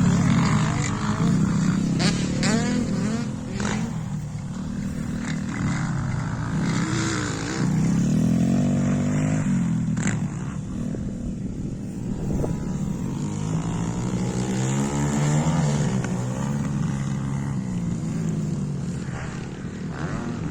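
Small single-cylinder four-stroke engine of a YCF 125 pit bike being ridden hard, the engine note climbing and falling again every few seconds as the throttle is opened and closed.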